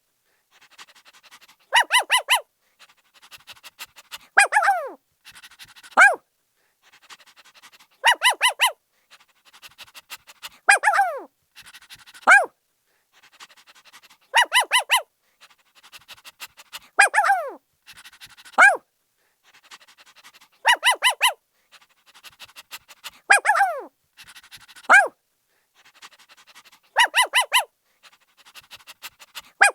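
Puppy barking in a pattern that repeats about every six seconds: a quick run of four high yaps, then a yelp that slides down in pitch, then a single yap, with faint breathy noise between.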